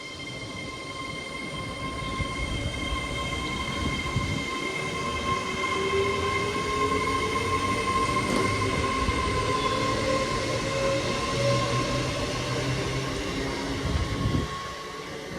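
Avanti West Coast Class 807 electric train pulling out, with a steady high whine and a lower motor whine that rises in pitch as it gathers speed. The sound builds over the first few seconds and drops away near the end.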